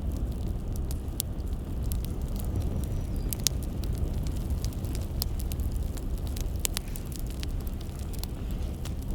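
Burning firewood crackling: irregular sharp pops and snaps over a steady low rumble, one pop standing out about three and a half seconds in.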